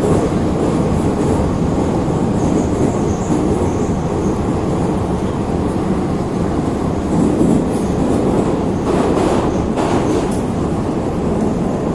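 Neva metro train running at speed through a tunnel, heard from inside the carriage: a steady, loud rumble of wheels and running gear, with a brief clatter of clicks about nine to ten seconds in.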